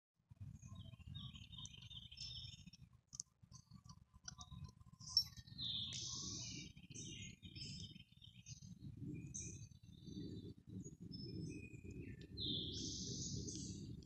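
Wild birds chirping and singing: many short high chirps, with two longer buzzy calls about six seconds in and near the end, over a continuous low rumble.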